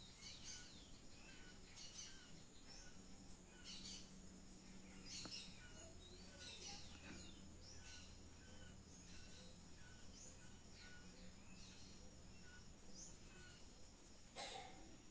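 Near silence with faint birds chirping again and again, short calls about once a second, over a low steady hum. A brief louder rustle comes near the end.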